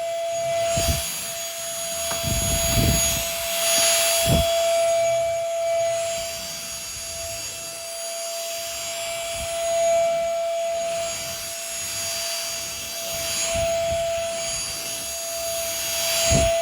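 Homeika cordless stick vacuum running: a steady high motor whine over a rush of air that swells and eases as it is moved, with a few low knocks.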